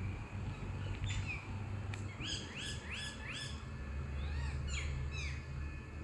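A bird singing outdoors: a quick run of about five rising notes starting about two seconds in, then a few arched notes, over a steady low rumble.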